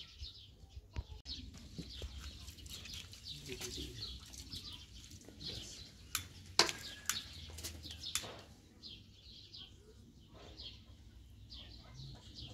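Small birds chirping over and over in quick, high notes, with a few sharp clicks a little past the middle.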